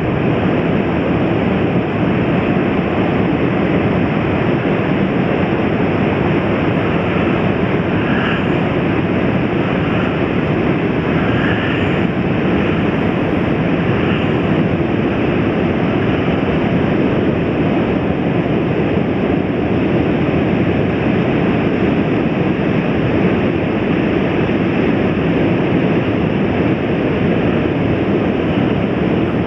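Ocean surf breaking continuously after a windy day, a steady, loud rush with no separate wave crashes standing out.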